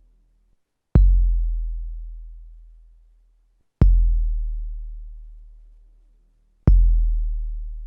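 A deep kick drum sample played back on an SP-1200 sampler, hit three times about three seconds apart. Each hit is a sharp click followed by a very low tone that fades slowly over about two and a half seconds.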